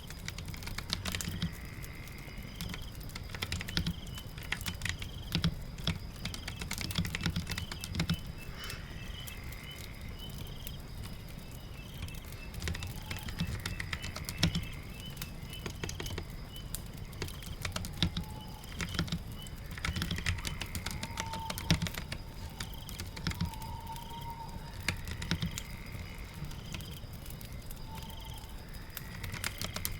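Typing on a computer keyboard: irregular keystroke clicks over a steady background of rain, with faint high chirps recurring every few seconds.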